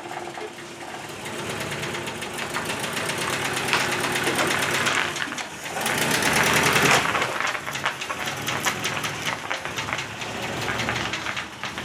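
Subaru Brumby's flat-four engine running with a rapid knocking, getting louder for several seconds and easing off after about seven seconds. It is a rod knock: the engine is called a rod knocker.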